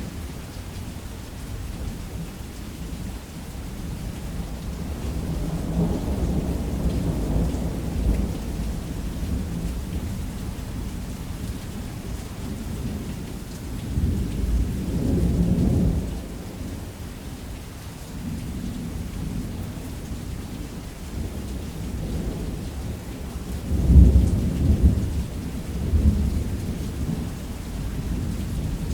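Thunderstorm: steady rain with deep rolls of thunder rumbling in three times, the loudest about three quarters of the way through.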